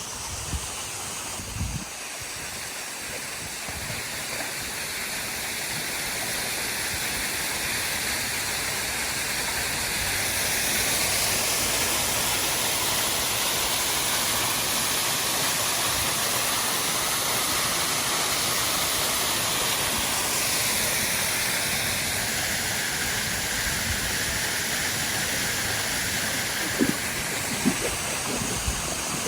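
Steady rush of fast-flowing stream water, growing louder over the first ten seconds or so and easing slightly after about twenty seconds.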